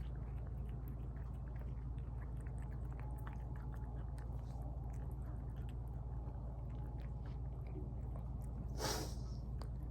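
Cats chewing and smacking on tuna: many small wet clicks over a steady low hum, with one short hissing snort just before the end.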